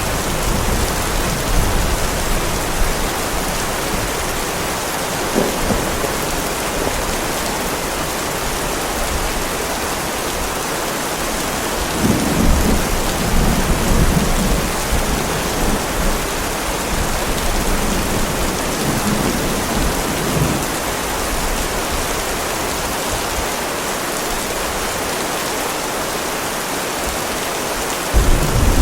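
Heavy rain falling steadily with a constant hiss, with thunder rumbling low a few times, longest from about 12 to 21 seconds in, and again at the very end.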